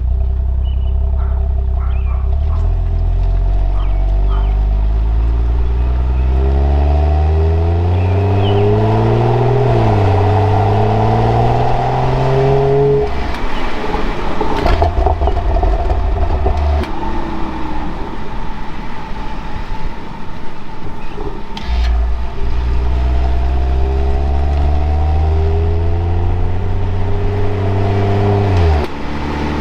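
BMW 435i's turbocharged straight-six through the M Performance exhaust, pulling hard under acceleration. The pitch rises for about ten seconds, dips briefly once as a gear changes, then drops off with a spell of rough crackling as the throttle closes. A second long pull climbs from about two-thirds of the way through and cuts off suddenly near the end.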